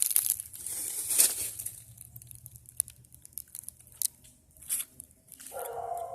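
Dry leaves rustling and crackling in short bursts, heaviest in the first second and a half, then sparse small crackles. A short hummed voice sound comes near the end.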